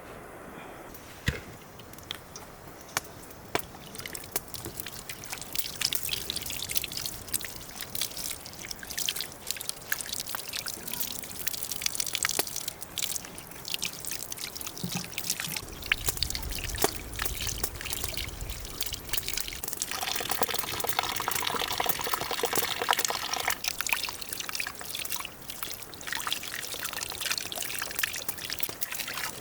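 Water trickling and pouring, with many small clicks and clatters, getting louder a few seconds in and strongest for a few seconds near the end.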